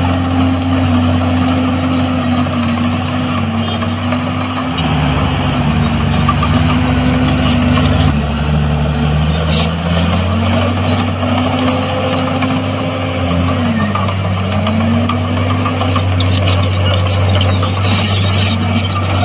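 Heavy diesel earthmoving machinery running steadily, its engine note dipping and rising as the revs change under load, with a second, lower engine note joining for several seconds about a third of the way in.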